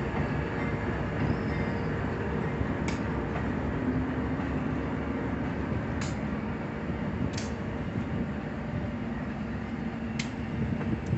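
Train in a rail yard: a steady low rumble with a faint hum, and a few sharp metallic clicks a couple of seconds apart.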